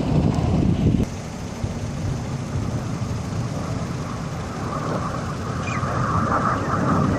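Jet aircraft engine roar from an air display, a heavy rumble that drops sharply about a second in and then swells again as a higher engine noise builds toward the end.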